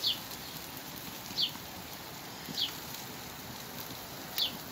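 A bird repeats a short, high chirp that falls in pitch, four times about a second and a half apart, over a steady sizzling hiss from mussels and fish cooking on a gas grill.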